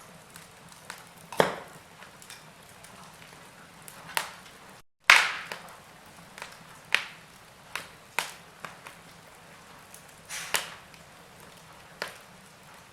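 Wood fire crackling in a fireplace: irregular sharp pops and snaps over a soft hiss. The sound cuts out for a split second about five seconds in, and the loudest pop comes right after.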